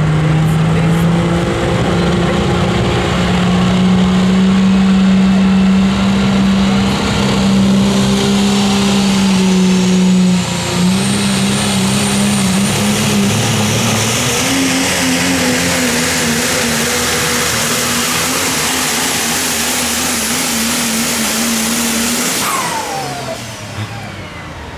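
Super stock diesel 4wd pulling truck (a Dodge) running at full throttle down the pulling track, its engine note rising and wavering under load. A high turbo whistle climbs and holds through most of the run, then falls away as the throttle is cut near the end.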